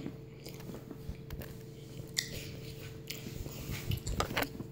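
A person chewing and biting into a waffle close to the microphone, with scattered short crunches and clicks over a steady low hum.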